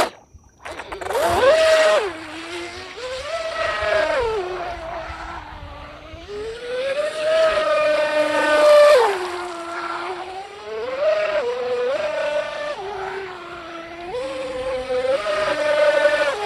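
Small RC boat's 2040 3900kv brushless motor, run on an 11.1 V LiPo, whining as the throttle is opened and eased off again and again, its pitch repeatedly rising and falling. A sharp click right at the start.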